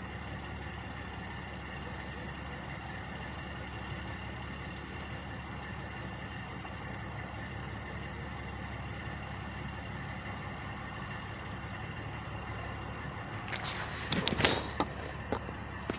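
Truck engines idling steadily with a constant low hum. About three-quarters of the way in, a loud burst of sharp clattering noise lasts about a second and a half.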